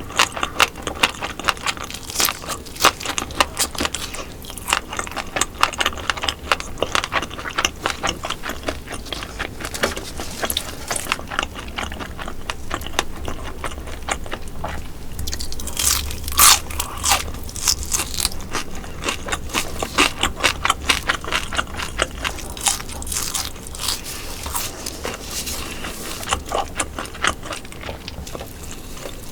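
Close-miked crunching and chewing of crispy sailfin sandfish and sand eel: a steady run of crisp bites and chews, with one louder, sharper bite about halfway through.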